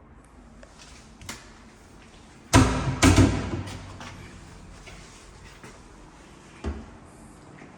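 Two sudden loud thuds in quick succession with a short rattling tail, then a single lighter knock near the end.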